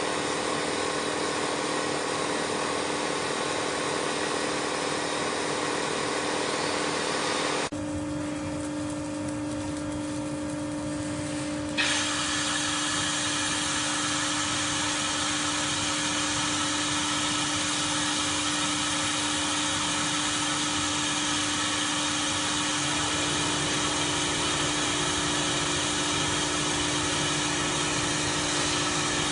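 Automatic pole welding machine running: a steady machine hum with a high hiss over it. The hiss cuts out abruptly for about four seconds, then comes back just as suddenly.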